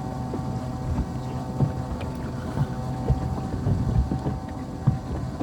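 A boat's engine running steadily, with gusts of wind buffeting the microphone.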